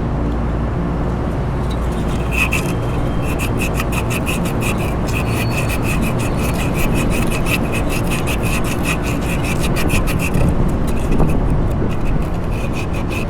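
Sandpaper rubbed back and forth by hand on a steel fan-motor shaft in quick, even strokes, smoothing it so the fan wheel will slide off. The strokes start about two seconds in, pause briefly near the end and resume, over a steady low rumble.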